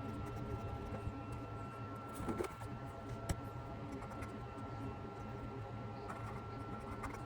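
Steady low hum with a thin high whine running under it, a brief rustle about two seconds in and a single sharp click about a second later.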